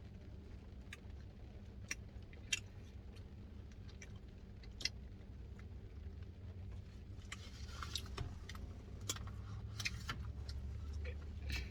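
Spoon clicking and scraping in a Dairy Queen Blizzard cup while eating, a few sharp clicks spaced out at first and denser scraping and eating sounds in the last few seconds, over a steady low hum.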